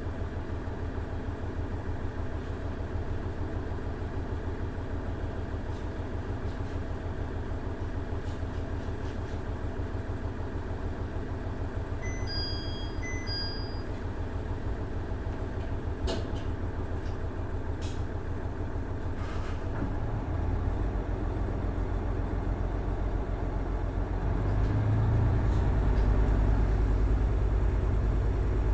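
Running sound heard inside a KiHa 110 series diesel railcar: its Cummins DMF14HZA diesel engine drones steadily, and the low rumble grows louder about two-thirds in and again near the end. Two short high beeps sound about twelve seconds in.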